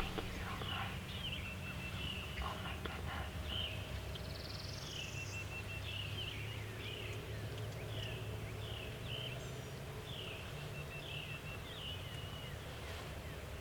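A small songbird calling over and over, short high chirping notes repeating about every half-second to second, with a brief higher rising note near the middle, over a low steady outdoor rumble.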